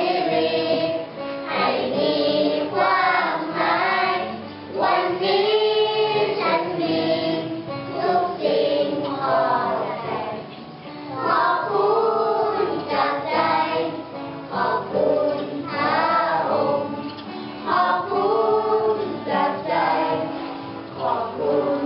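A group of children singing a Thai song together, held and gliding sung notes over steady accompaniment.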